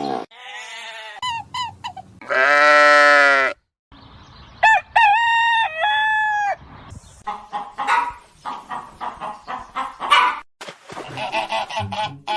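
Roosters crowing, two long crows about two seconds and five seconds in, followed by hens clucking in quick short calls. The sounds start and stop abruptly, as if cut together from short clips.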